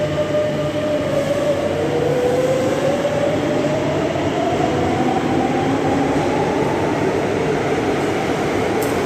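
Madrid Metro train running, with steady rail and running noise under an electric motor whine that starts rising in pitch about a second and a half in and keeps climbing.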